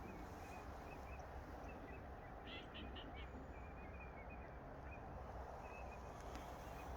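Faint bird calls: scattered short high chirps, with a quick run of four or five calls about two and a half seconds in, over a faint low rumble.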